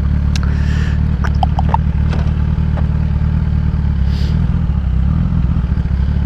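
Kawasaki ZX-10R's inline-four idling steadily through a Graves race exhaust, stopped in traffic, with a few light clicks about a second in.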